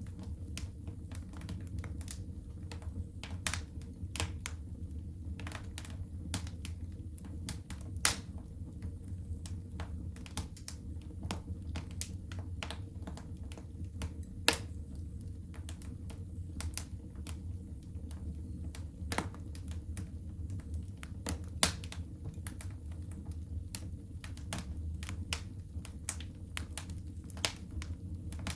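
Wood fire crackling in a fireplace: a dense, irregular run of small snaps with a few louder pops, over a steady low rumble.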